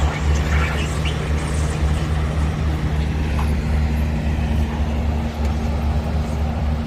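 Tractor engine running steadily at an even speed, with a deep, unchanging low hum.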